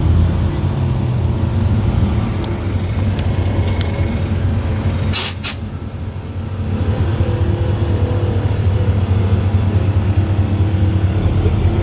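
A vehicle engine running with a deep, steady rumble. It eases off briefly about six seconds in, then grows louder again. Two short noisy bursts come just before the dip.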